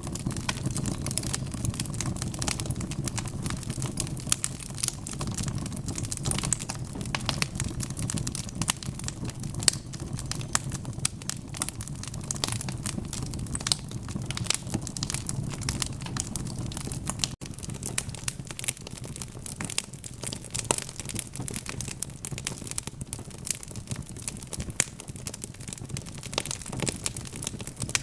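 Wood fire crackling, with many irregular sharp snaps and pops over a low steady rumble of burning logs; the rumble eases a little about two-thirds of the way through.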